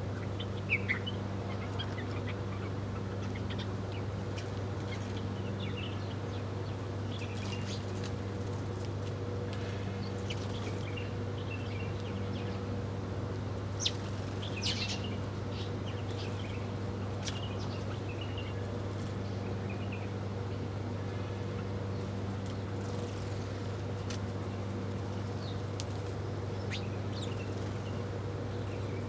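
Small birds giving scattered short, high chirps and tweets, sparse and irregular, over a steady low hum.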